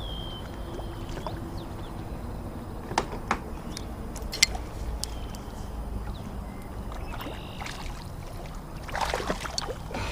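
Knocks on a fishing kayak and water sloshing while a hooked fish is brought alongside. Two sharp knocks come about three and four and a half seconds in, and a burst of splashing comes near the end.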